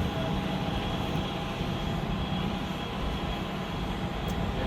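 Steady wind buffeting the microphone, a dense, even rumble with no distinct events.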